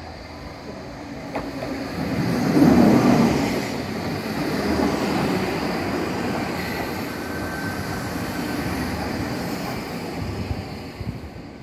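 Ohmi Railway electric train passing close by, loudest about three seconds in as the front car goes past, then a steady run of car and wheel noise that slowly eases off. A faint high squeal joins about halfway through.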